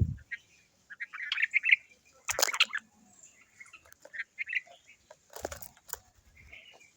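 Birds chirping and calling in short bursts. Three loud, sharp noises come about two and a half seconds in and again at about five and a half and six seconds.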